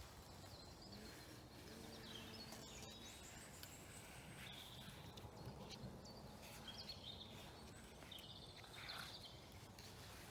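Near-silent woodland ambience with faint, scattered bird chirps now and then.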